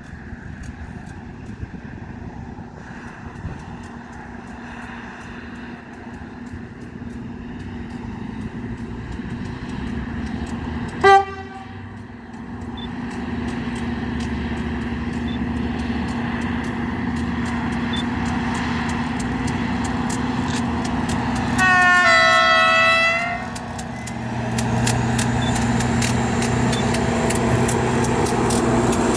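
Freight train approaching, its steady drone growing louder. The locomotive horn gives a very short toot about eleven seconds in and a longer blast of about a second and a half later on, then wheels start clicking over the rail joints as the train draws near.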